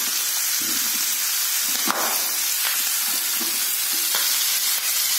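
Pork and onions frying in hot oil in a wok, sizzling steadily, with a few light clicks and taps of a spoon as paste is scooped in.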